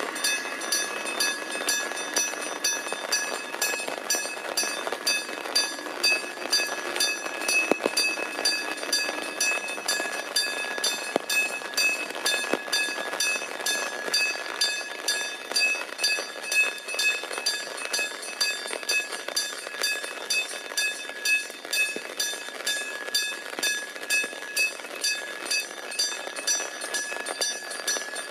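Electric-bell railway crossing alarm ringing steadily, pulsing about twice a second. A train runs past underneath it, its rumble fading after about ten seconds.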